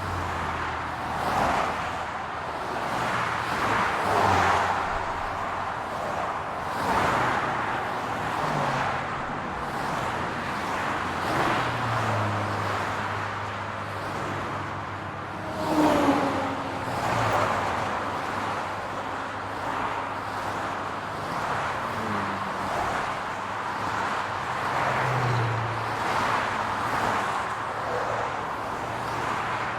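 Steady city road traffic: cars passing one after another, tyre noise swelling and fading, under a low engine hum. About halfway through, one louder pass carries a short tone that falls in pitch.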